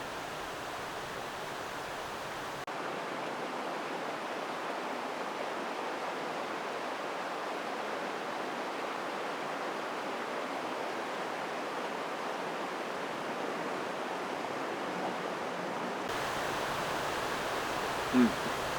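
Steady rushing hiss of a mountain stream flowing. Its tone shifts abruptly twice. A short, higher-pitched sound comes near the end.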